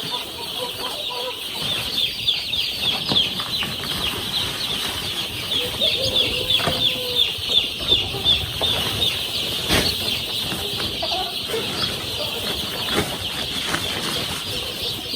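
Young chicks peeping, a dense run of short, high cheeps one after another, with a few sharp knocks, the clearest about ten seconds in.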